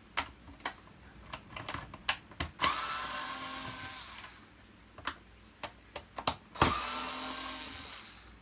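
Cordless electric screwdriver run twice, each run about a second and a half long, backing out the screws of a vacuum cleaner's plastic front cover. Clicks of plastic and tools being handled come before and between the runs.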